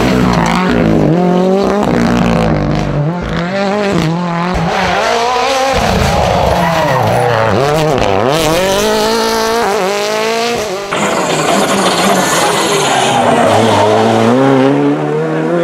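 Rally car engines revving hard through gear changes, the note climbing and dropping again and again, with tyres squealing. About 8 s in the note falls steeply and then climbs. About 11 s in it cuts to another car accelerating.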